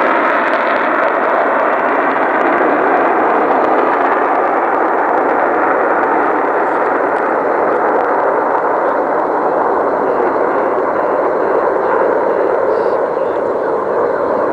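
F-16 fighter jets passing low overhead: a loud, steady jet roar, easing off slightly near the end.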